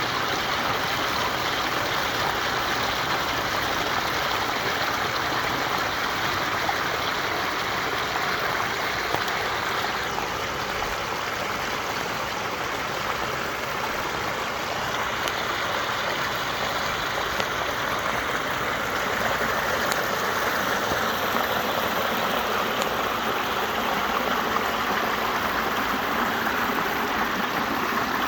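Water of a pondless waterfall stream running steadily.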